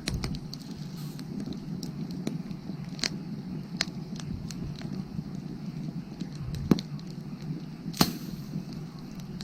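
Wood fire crackling: a steady low rush of burning with scattered sharp crackles and pops, two loudest pops about seven and eight seconds in.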